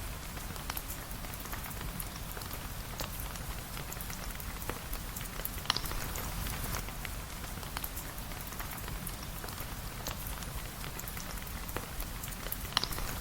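Steady rain falling, with a dense patter of fine drop ticks over a low rumble, and two sharper pops, one about six seconds in and one near the end.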